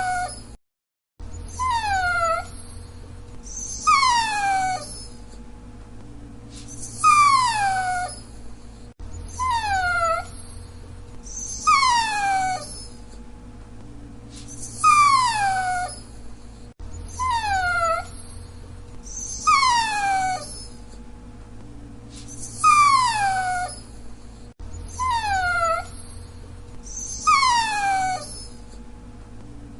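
Dachshund whining: a string of short whines, each sliding down in pitch, repeating about every two to three seconds.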